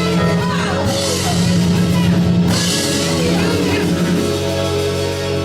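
Live church band music with a drum kit and long held low notes, played as praise music between parts of the sermon.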